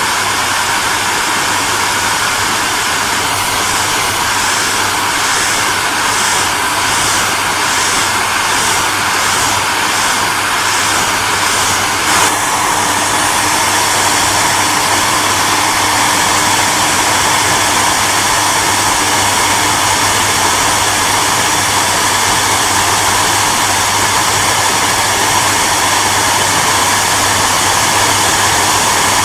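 Electric hairdryer running steadily: a loud, even rushing hiss over a low hum. About twelve seconds in there is a brief click and the tone shifts slightly, then it runs on evenly.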